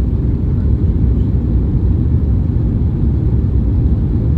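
Steady low rumble of an Airbus A321neo's cabin noise, heard from inside the cabin: engine and airflow noise with no distinct events.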